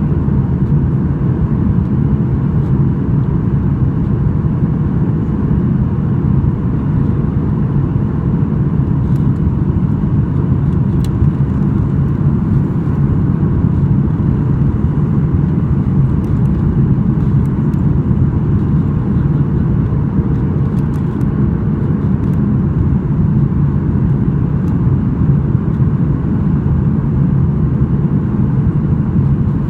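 Steady loud drone of a Boeing 737-800 heard from inside the cabin, the deep rush of its CFM56 engines and airflow holding even throughout, with a few faint ticks in the middle.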